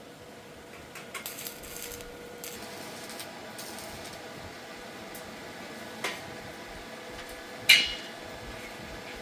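Metal parts and tools being handled: a cluster of light clinks about a second in, a single knock around six seconds, and a louder ringing metal clank near the end, over a faint steady hum.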